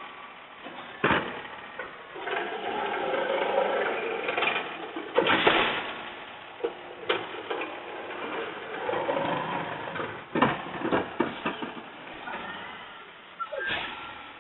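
Machinery whirring unevenly, with several sharp knocks and clanks.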